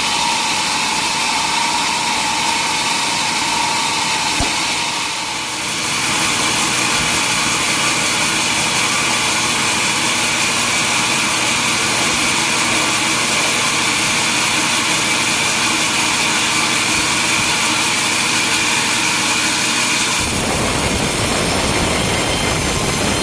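Sawmill machinery running, with the steady high whine of a saw over a dense, hissing mechanical noise. The pitch of the whine jumps abruptly about five seconds in and the sound changes again near the end.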